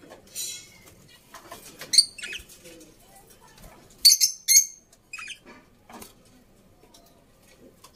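Bird calls: short, high-pitched squawks and chirps, the loudest about two seconds in and a quick run of three just after four seconds, with fainter squeaks between.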